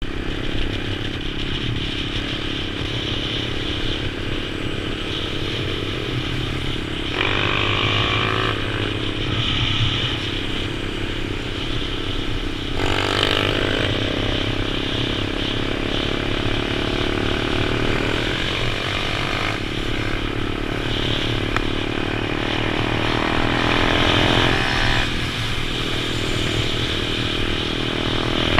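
Pit bike engine running under way, rising in pitch several times as the rider accelerates, between steadier stretches.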